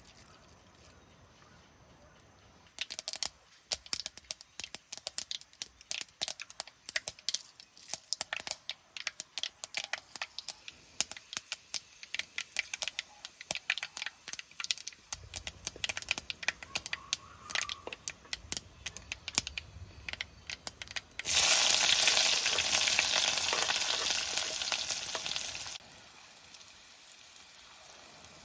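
Food frying in hot oil: from about three seconds in, many sharp crackles and pops of spattering oil. About three-quarters through comes a loud, steady sizzle lasting about four seconds, which then drops away abruptly.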